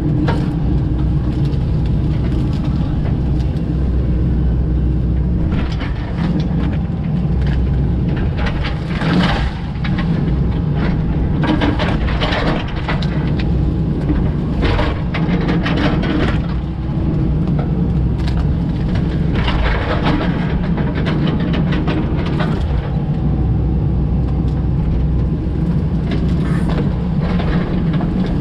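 Komatsu PC88 excavator's diesel engine running steadily under load, with repeated sharp cracking and snapping of wood as trees and stumps are pushed over and pulled out.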